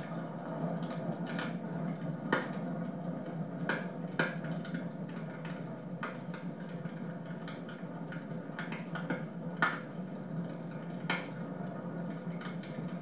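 Wood fire in a fireplace crackling, with sharp pops at irregular intervals, about one a second, over a steady hiss.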